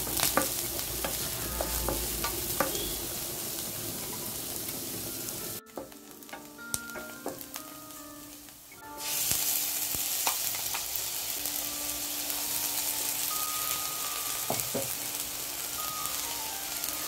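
Food sizzling in hot oil in a frying pan on the stove as the masala is started. The sizzle drops away for about three seconds a little past the middle, then comes back at full strength.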